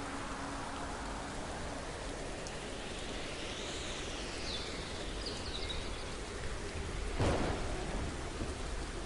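Steady rain falling, with a sudden sharp thunderclap about seven seconds in followed by a low rumble.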